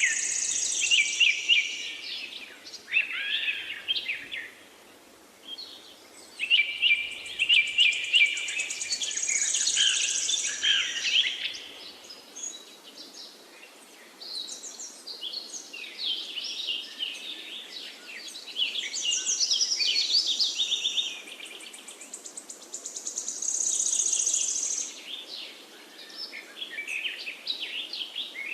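Songbirds singing in long phrases of rapid, high chirping notes, each phrase several seconds long with short pauses between, over a faint steady background hiss.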